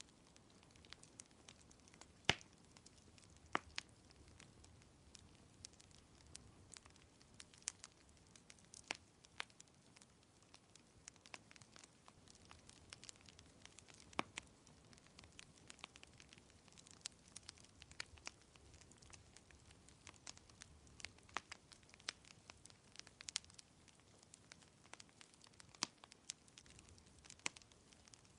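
Wood fire crackling, with irregular sharp pops and snaps over a faint steady hiss; the loudest pops come about two seconds in, again a second later, and near the middle.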